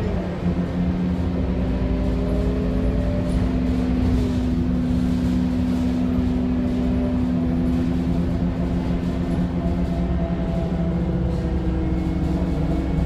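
Scania K230UB city bus's 9.3-litre Scania DC9 diesel engine running steadily under way, a low hum with a few higher tones that slide up and down in pitch, as with changing engine speed.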